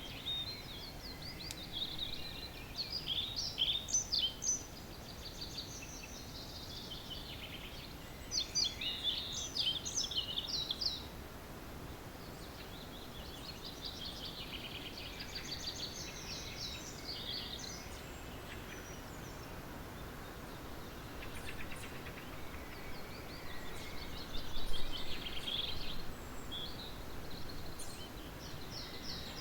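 Early-morning chorus of several songbirds singing overlapping phrases of high, quick notes, loudest in a few bursts, over a faint steady low background rumble.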